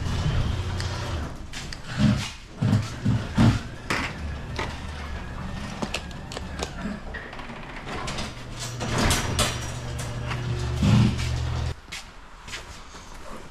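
LiftMaster garage door opener powerhead running the door with a steady low hum. It stops about a second in, a few sharp knocks follow, then it runs again from about four seconds and cuts off suddenly near the end.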